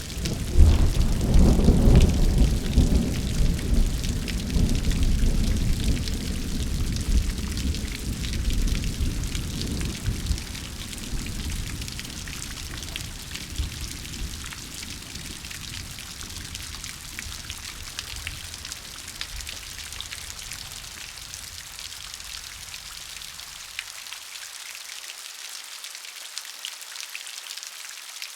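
Steady rain falling, with a long roll of thunder that breaks in at the start, is loudest in the first few seconds and slowly dies away over about twenty seconds.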